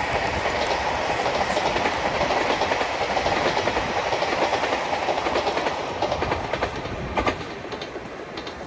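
A diesel limited express train running past on the line, with wheels clicking over the rail joints as the cars go by. The sound fades near the end as the train pulls away.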